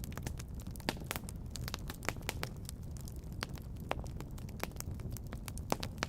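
Wood fire in a fireplace crackling, with irregular sharp pops, a few of them louder, over a steady low rumble.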